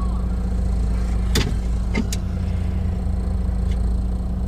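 Car engine running steadily, with a few sharp clicks: one about a second and a half in, two close together around two seconds in, and a faint one later.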